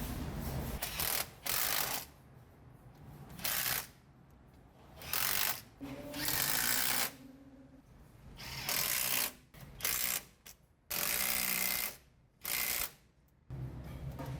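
A workshop power tool run in about nine short bursts, each up to about a second long, with brief pauses between, as when working bolts on the van's differential cover.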